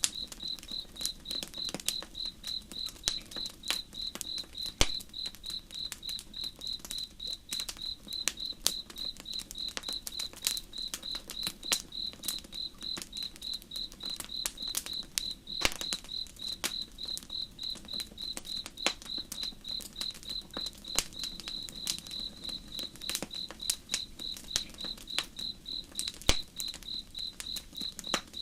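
Crickets chirping in a steady, even rhythm of about two to three chirps a second, over a campfire crackling and popping irregularly, with a faint low wash of flowing river water beneath.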